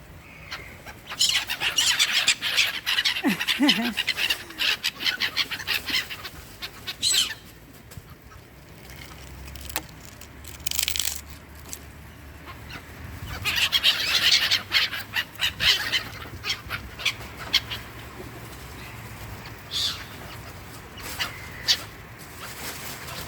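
A flock of small birds chirping and twittering as they gather to feed on thrown bread. It comes in two busy spells, one starting about a second in and one around the middle, with scattered single chirps between them.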